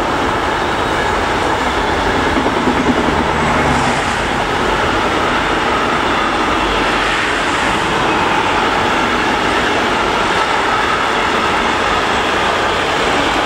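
Long intermodal freight train of wagons carrying road semi-trailers rolling past close by: a steady, loud noise of steel wheels running on the rails as wagon after wagon goes by.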